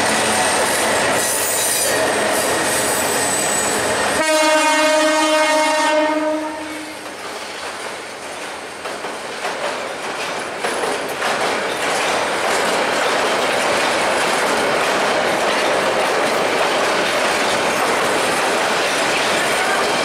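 Bangladesh Railway diesel-hauled passenger train running past with a steady rumble. About four seconds in, the locomotive sounds one horn blast of roughly two seconds, the loudest sound here. From about eleven seconds on, the coaches roll close by with a loud rattle of wheels on the track.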